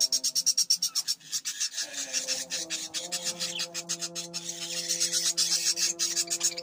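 Rapid, rhythmic rasping, about eight strokes a second, over held low tones that change pitch about two and a half seconds in.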